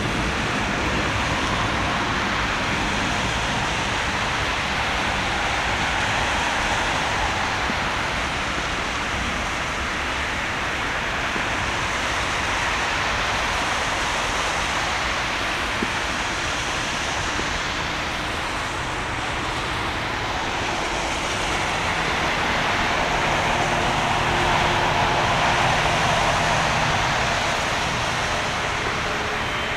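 Jet engines of an Airbus A330-300 (GE CF6-80E1 turbofans) running: a steady rush of noise that swells a little near the end, with a faint steady whine coming in during the last third.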